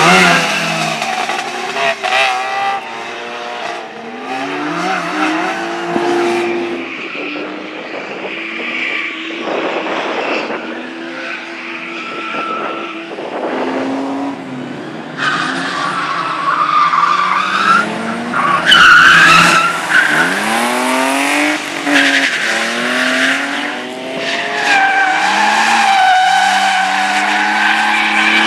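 Rally cars being driven hard, engines revving up and dropping back again and again through gear changes and corners, with tyres skidding and squealing.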